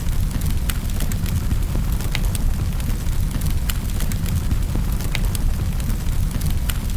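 Wood fire crackling in a fireplace: a steady low rumble of burning with sharp pops and crackles at irregular moments, several a second.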